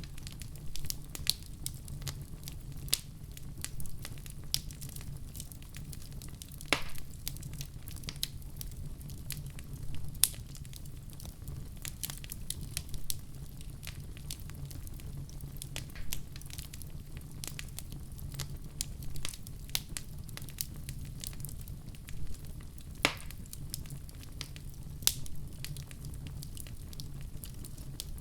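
Wood fire crackling in a fireplace over a steady low rumble of flames. Frequent small pops and snaps, with a louder pop about 7 seconds in and another about 23 seconds in.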